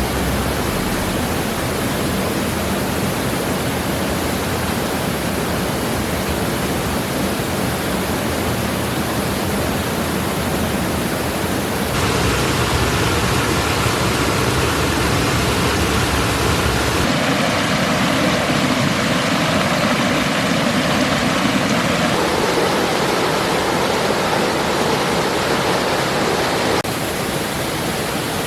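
Rain-swollen creek rushing over rocks and cascades: a steady full rush of flowing water that shifts abruptly in character several times.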